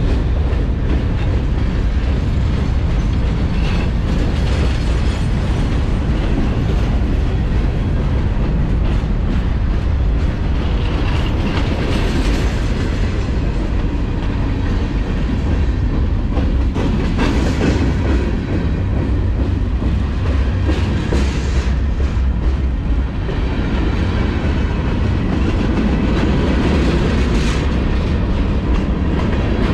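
Union Pacific freight train rolling past at close range: a steady loud rumble, with sharper wheel clacks here and there.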